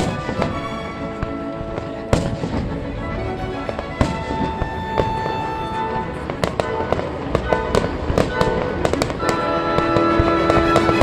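Fireworks going off over music with long held notes: a few single sharp bangs a couple of seconds apart, then a dense run of rapid crackling bangs in the second half.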